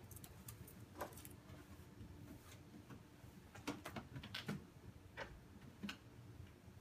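Light, scattered clicks and taps of a small pet bird's claws and beak on a sculpture as it hops and pecks about, about nine in all, several close together around the middle.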